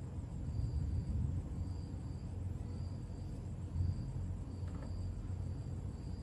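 Short high chirps repeating about twice a second, like an insect chirping, over a steady low hum.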